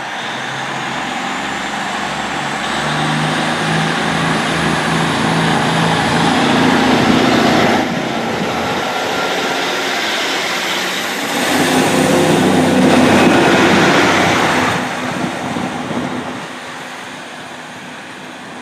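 Class 150 Sprinter diesel multiple unit pulling away from a station, its diesel engine note climbing in steps, with a faint rising whistle above it. The engine drops back about eight seconds in, climbs again, then fades as the train draws away.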